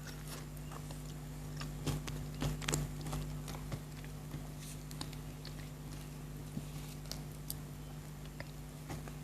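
Chocolate being bitten and chewed close to the microphone: scattered crunchy clicks and mouth sounds, busiest about two to three seconds in, over a steady low hum.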